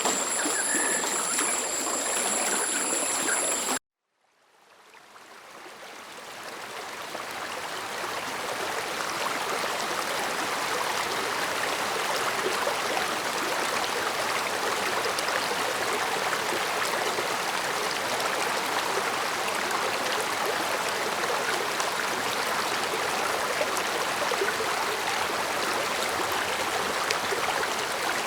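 Stream water flowing and babbling steadily. About four seconds in it cuts out abruptly to silence, then fades back up over several seconds. Before the cut, two steady high-pitched tones sound over the water.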